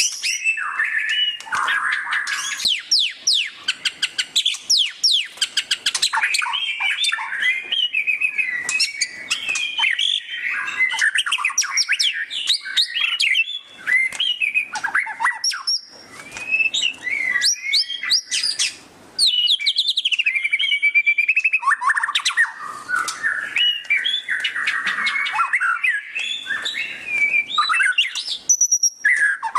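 White-rumped shama (murai batu) singing loudly and almost without pause: a varied stream of rapid chattering trills, whistled glides and warbles, in the fast 'ngeriwik' style, with a few short breaks midway.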